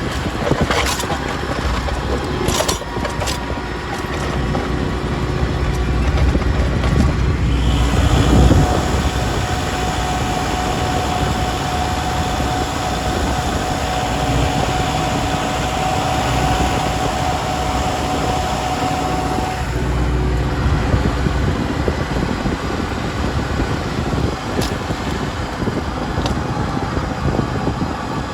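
Kubota L5240 tractor's diesel engine running steadily shortly after a cold start. A few sharp clicks sound in the first seconds and again near the end, and a steady high whine rides over the engine through the middle stretch.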